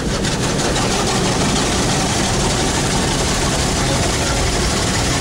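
Automatic car wash machinery working over the car, heard from inside it: a loud, steady rushing noise with a low rumble underneath.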